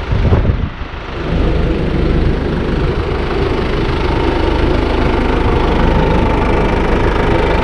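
Engine running steadily: a low, even rumble with a faint steady whine.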